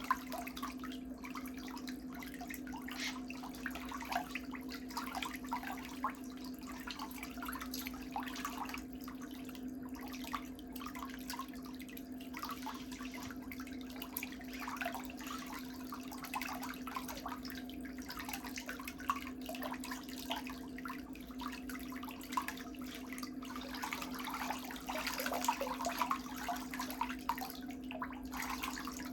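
Pedicure hand tools working on thick toenails, with many small irregular scraping and clicking strokes over a steady low hum.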